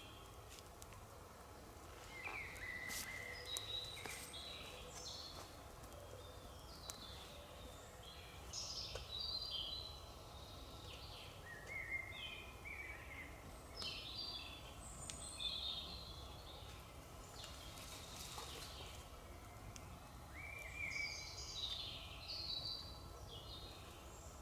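Songbirds singing in short, repeated phrases every few seconds, over a steady low background rumble, with a few faint clicks.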